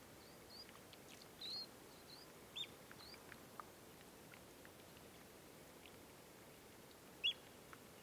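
Birds calling at a quiet mudflat: a run of short, high chirps over the first few seconds and one louder, sharper call about seven seconds in, with faint scattered ticks between.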